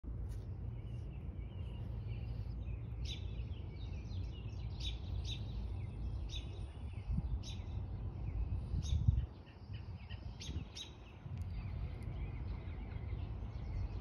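Birds chirping: many short, high chirps at irregular intervals, over a steady low rumble that drops away for a couple of seconds a little past nine seconds in.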